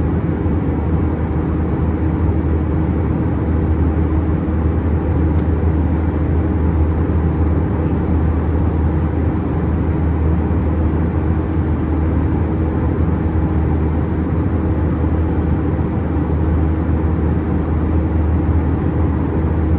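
Airbus A320 cabin in flight: the steady drone of its CFM56 turbofan engines and the airflow around the fuselage, with a constant low hum and a faint steady tone above it.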